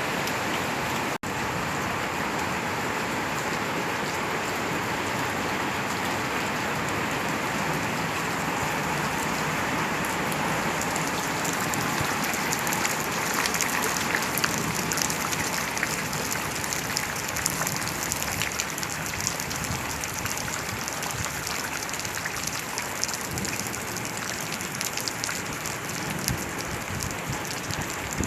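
Steady rain falling, a dense even hiss with individual drop impacts that grow more distinct in the second half.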